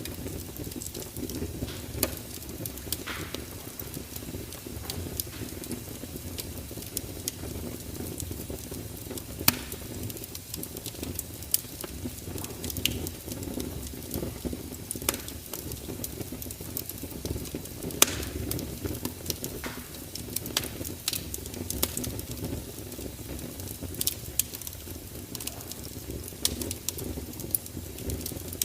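Fire crackling: a steady low rush of flames with irregular sharp pops scattered throughout, the loudest about nine and eighteen seconds in.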